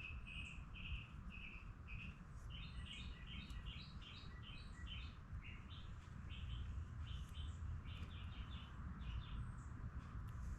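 A bird chirping in quick runs of short, high notes, several a second, over a faint low rumble.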